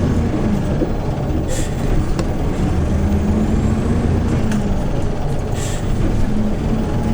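Cabin sound of a 2013 Hyundai New Super Aero City CNG city bus under way. Its engine runs steadily, its hum rising in pitch about three seconds in and easing back down about two seconds later. Two short hisses of air come from the bus's air system, about one and a half seconds in and near six seconds.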